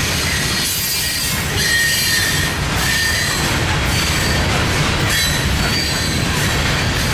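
Freight train cars rolling past, their steel wheels squealing in short high-pitched tones that come and go over the train's steady rumble.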